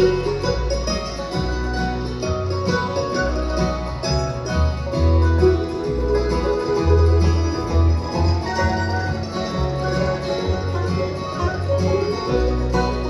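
Bluegrass band playing an instrumental break with no singing: banjo, guitar and mandolin picking over a steady bass line.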